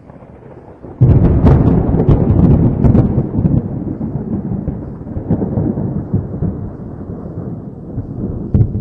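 A thunderclap: a sudden loud crack about a second in, crackling for a couple of seconds, then a long rolling rumble that slowly dies away, with another sharp crack near the end.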